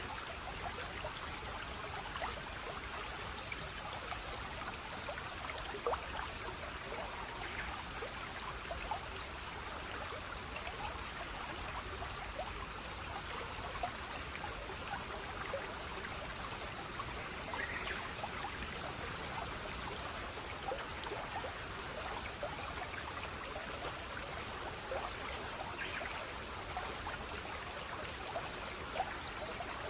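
A small stream trickling and splashing steadily, with many small droplet splashes over an even rush of water.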